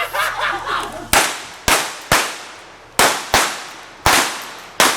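Stage gunfight with blank-firing revolvers: seven sharp shots in quick, uneven succession, each trailing off in an echo.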